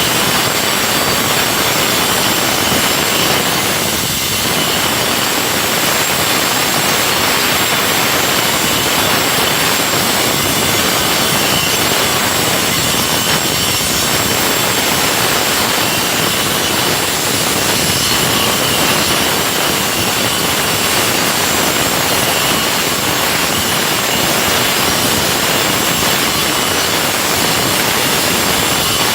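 Makita DGA900 9-inch cordless angle grinder, powered by two 18-volt batteries, cutting through a concrete slab with water fed onto the cut: a loud, steady grinding with a high whine running through it.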